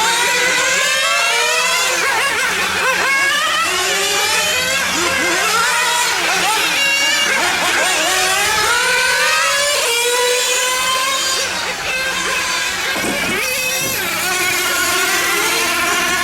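Several small nitro engines of 1/8-scale RC cars running on a track, their high-pitched whine repeatedly rising and falling as the cars accelerate and back off.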